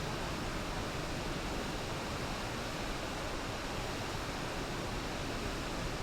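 Steady rush of flowing river water from the Serpis River, an even noise with no breaks.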